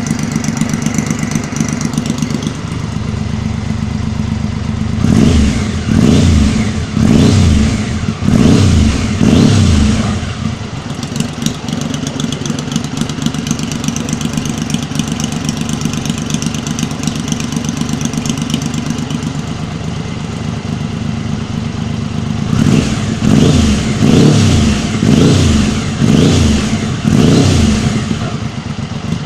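1996 Triumph Trophy motorcycle engine idling through an aftermarket exhaust, with two runs of quick throttle blips, about five revs each, a few seconds in and again in the later part.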